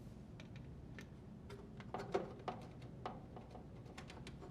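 Faint scattered clicks and light knocks of metal and plastic parts being handled as the ground wire is detached from a dryer's control panel, a few slightly louder knocks about two seconds in.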